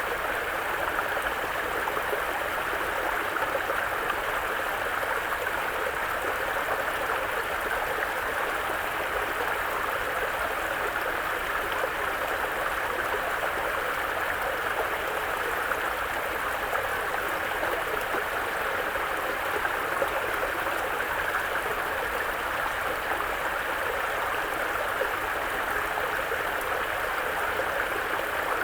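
Mountain brook flowing over rocks, a steady babbling and gurgling of water.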